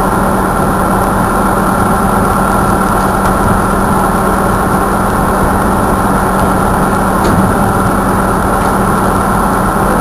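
A steady, loud droning noise with a constant low hum through it.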